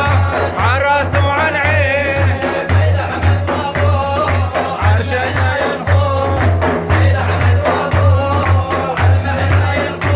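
Sufi devotional praise song (madih): a man singing an ornamented melody over a steady low drum beat.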